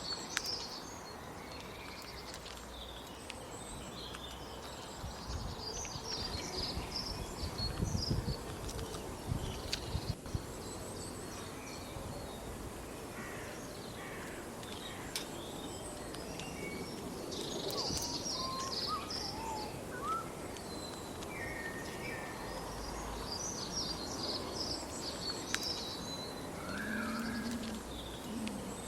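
Outdoor ambience with many small birds chirping in scattered short bursts over a steady background hiss, with a few low thumps about a third of the way through.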